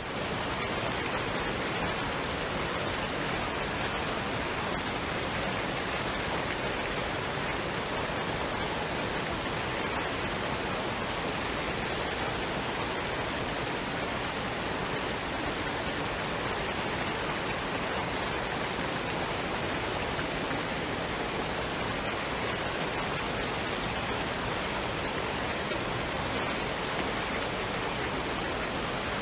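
Waterfall and stream: steady rushing water, an even hiss of white noise with no changes or separate events.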